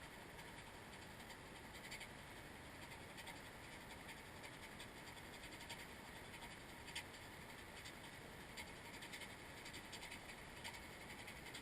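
Near silence: a faint steady hiss with scattered faint clicks.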